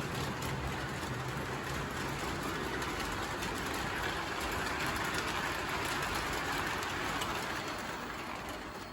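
O gauge model locomotive hauling a long train of cars around the layout: a steady rolling rumble and clatter of wheels on track, fading away over the last second.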